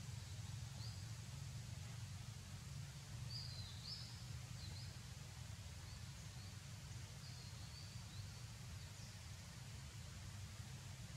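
Outdoor ambience: a steady low rumble with faint, short, high-pitched chirps from small birds scattered through it.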